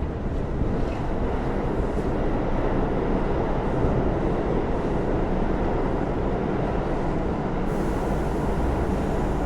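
Steady low rumble of heavy vehicle noise on a city street.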